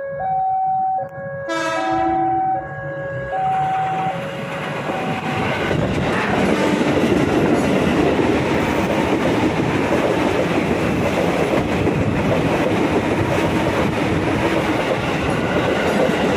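Electric commuter train approaching, with two warning notes alternating about once a second and a horn blast about two seconds in. After about five seconds it passes close by in a loud, steady rush of wheel and car noise with clattering over the rails.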